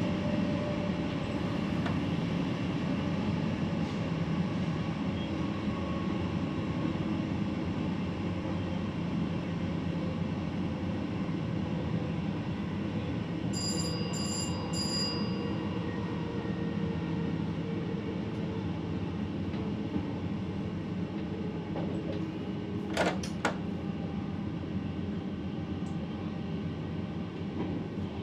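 Train running noise in the driver's cab while the train slows from about 100 to 70 km/h. About halfway through, a cab signal bell rings briefly three times, and a couple of sharp clicks come later.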